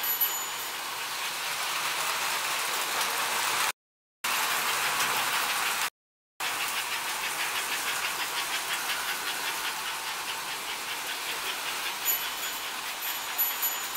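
American Flyer S gauge model train running on the track: a steady electric hum and wheel rumble, with a fast regular clicking from the wheels in the second half. The sound cuts out completely twice, for about half a second each.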